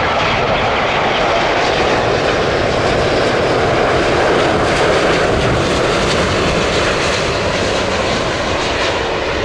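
Airbus A350-1000 jet airliner passing on landing approach, its Rolls-Royce Trent XWB engines making a loud steady rushing noise that swells slightly near the middle and eases toward the end.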